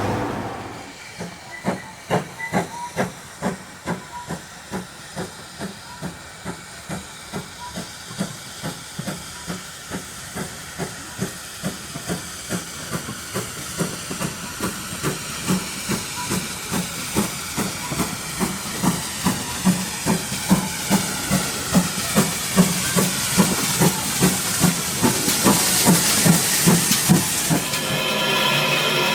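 Steam locomotive No. 9351, a GWR-style 2-6-0, working hard with a regular exhaust beat of about two chuffs a second over a steady hiss of steam. The chuffs grow louder toward the end.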